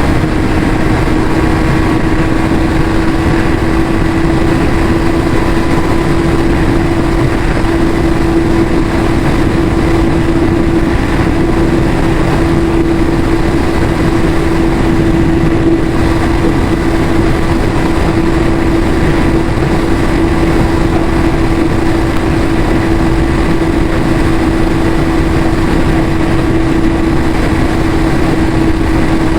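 Yamaha YZF-R6's inline-four engine with its stock exhaust running at steady, unchanging revs, one strong fixed pitch over a dense low rumble.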